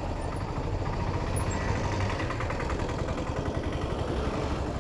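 Road traffic: motor-vehicle engines running close by, with a steady low rumble.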